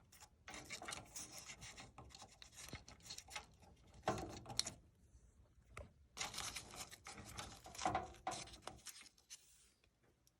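Hands working wires and plastic connectors on an HVAC control board: irregular rubbing and scraping with small clicks, in several bursts, dying away near the end.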